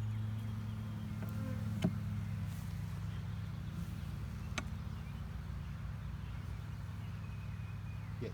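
Honeybees buzzing around an opened hive during a frame inspection: a steady low hum, with a couple of faint clicks.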